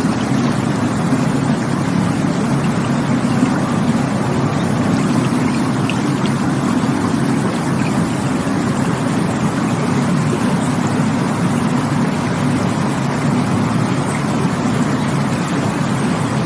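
Rushing water, a deep, even rush that holds steady throughout.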